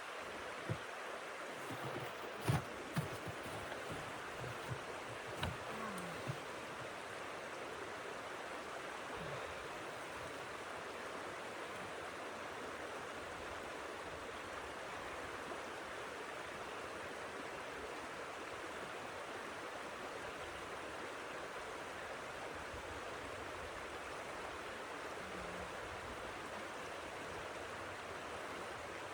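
Steady rushing of blizzard wind, an even hiss with no change, with a few soft knocks in the first several seconds.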